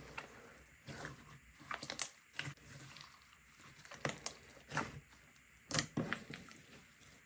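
Slime being squeezed and poked by hand, giving irregular sticky pops and clicks, the loudest about two seconds in and near six seconds.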